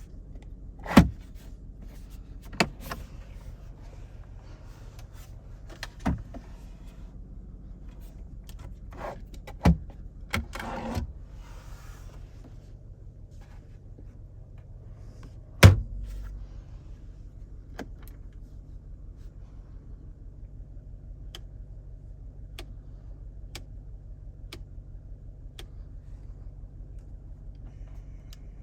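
A car being handled: a string of sharp clicks and knocks, the loudest with a low thump about two-thirds of the way in, over a steady low hum.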